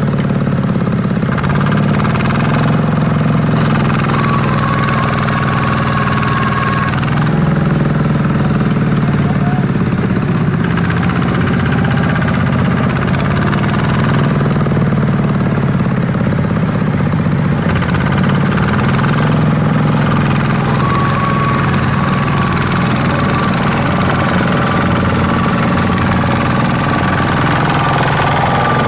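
Small Kubota tractor's diesel engine running steadily at a constant speed.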